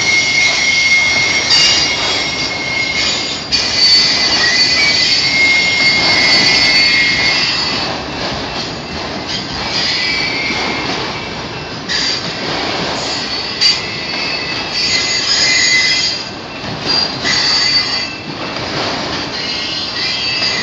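Freight train of autorack car carriers rolling past under braking, its wheels and brakes squealing. Several high, steady squeal tones come and go over the rumble of the wheels on the rails.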